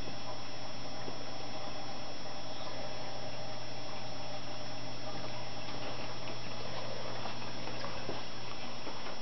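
Aquarium equipment running: a steady low hum with a light watery bubbling over it.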